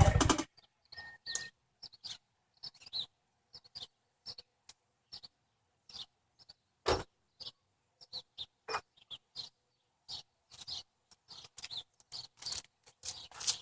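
The exhaust of a 2007 Mazdaspeed6's turbocharged four-cylinder, with secondary cat and muffler deleted, dies away at the very start as the engine shuts off. After that there are only faint, scattered short high chirps.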